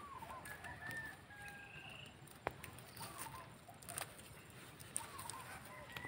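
Faint bird calls: short looping whistled calls repeated every couple of seconds, with a longer, higher whistled note about a second in. A single sharp click about two and a half seconds in.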